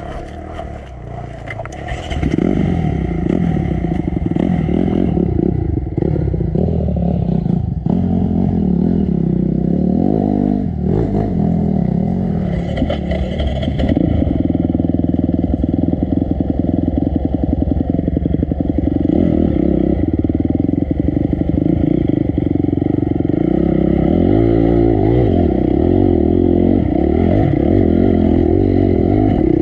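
Four-stroke dirt bike engine running under throttle. It picks up sharply about two seconds in, then the revs rise and fall as the bike climbs, holding steady and loud through the second half.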